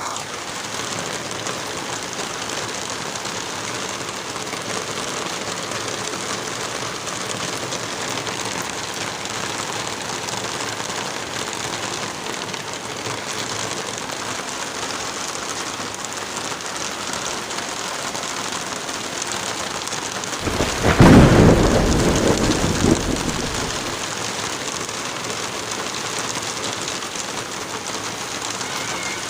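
Steady heavy rain, with a single thunderclap about two-thirds of the way through that rumbles loudly for about three seconds and fades.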